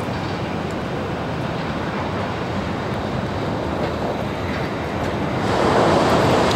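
Running noise of an N700-series Tokaido Shinkansen train at speed, heard from inside the passenger car: a steady rumbling hiss that swells louder about five and a half seconds in.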